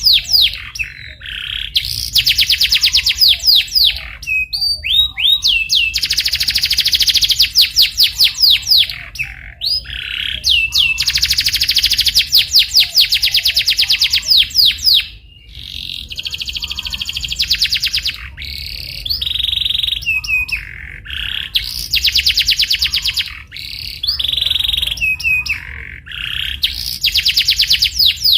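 Domestic canary singing a rolling song: phrase after phrase of very rapid trilled notes, each a few seconds long, with short breaks and a few single sweeping notes between them.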